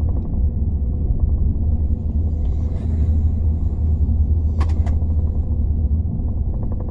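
Fuxing CR400AF-AE sleeper high-speed train running at speed, heard from inside the carriage as a steady deep rumble with a faint steady hum. Two short sharp knocks come a little past halfway.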